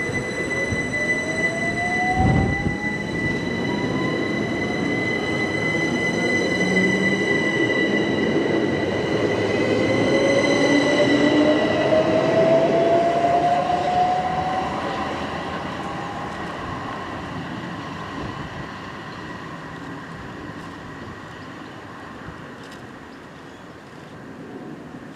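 Class 377 Electrostar electric multiple unit pulling away, its traction motor whine rising in pitch in two steps over a steady high tone. It grows louder to a peak about halfway through, then fades as the train draws away.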